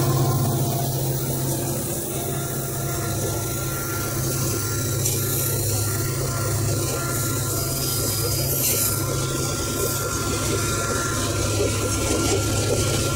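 Long coal train of hopper wagons rolling past: a steady low rumble of steel wheels on the rails with a rattling, clanking layer from the wagons.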